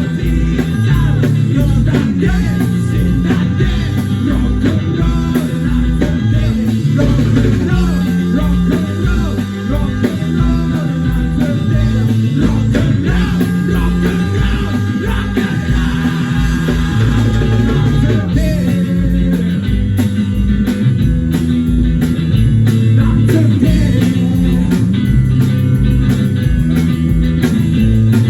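Rock band playing live: electric guitar, bass guitar and drum kit, with a steady driving beat and a prominent bass line.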